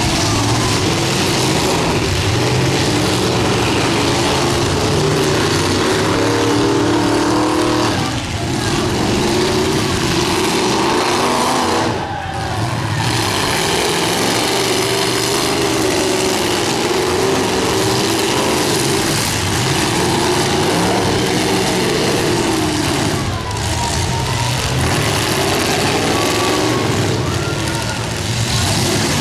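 Several demolition derby cars' engines running and revving hard together, rising and falling in pitch as the cars accelerate and turn. The sound is loud and continuous, with a few brief dips.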